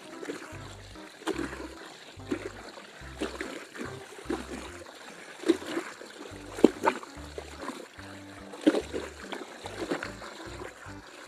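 A cloth being scrubbed and sloshed by hand in a plastic basin of soapy water, with short splashes and drips about once a second.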